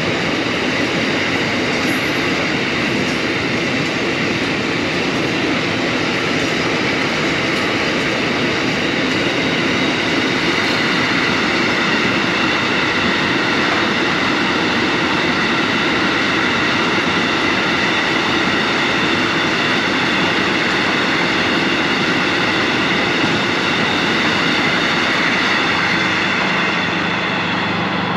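Narrow-gauge freight train rolling past, its wagons giving a steady rumble and rattle on the track.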